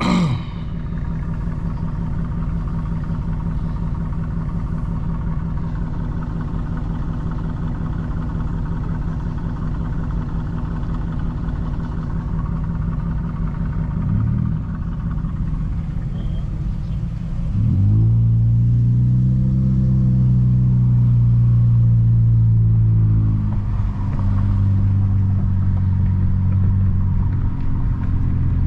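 Straight-piped 2020 Nissan Altima exhaust idling with a steady low drone. About two-thirds of the way through it rises in pitch and gets louder, holds a louder steady note for several seconds, then drops back and settles.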